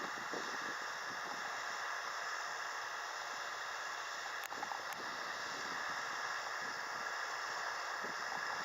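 Kubota tractor running with a steady noise, with two short clicks about halfway through.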